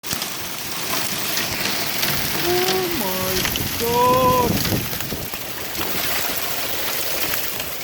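Heavy rain falling steadily, a constant hiss with many sharp drop ticks. A person's voice calls out briefly about a third of the way in.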